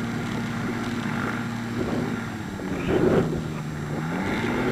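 Quicksilver GT 500 ultralight's engine and propeller running steadily, with wind on the microphone. About three seconds in the engine pitch drops as the throttle is eased, then climbs again near the end as power comes back on.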